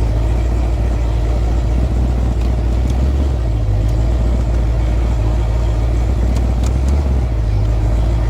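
Supercharged LSX V8 of a 1991 GMC Syclone pickup running steadily at low speed, a deep, even rumble with no hard revving.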